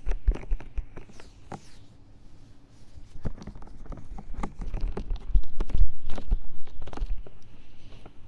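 An ear-cleaning tool scratching fast and hard inside the silicone ear of a 3Dio binaural microphone, heard as close, rapid, irregular scraping clicks with muffled thumps. It thins out briefly a couple of seconds in, then grows busier and louder past the middle.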